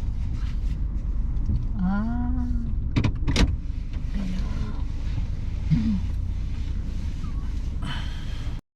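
Low, steady rumble of a car's engine and road noise inside the cabin while driving, with two sharp clicks about three seconds in and a couple of brief voice sounds.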